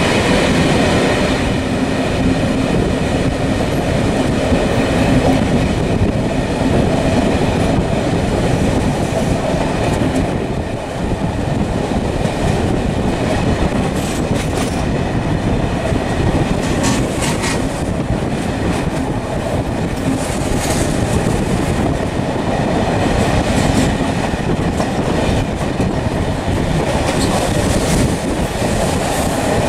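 Continuous loud rumble and rattle of a vehicle in motion, with scattered short clicks and a brief dip in loudness about eleven seconds in.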